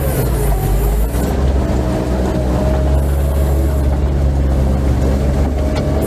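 ATV engine running steadily under load, with a whine that drifts slightly up and down in pitch.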